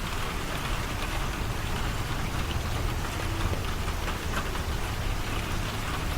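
Steady rain falling, with faint scattered drop taps over a low rumble.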